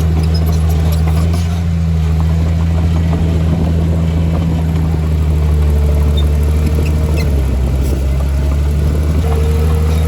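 Heavy diesel earthmoving machine engine running steadily under load, a deep even hum with a brief dip about two-thirds of the way through.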